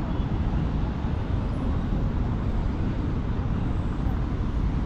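Steady city street traffic noise: a continuous low rumble of road vehicles with no single event standing out.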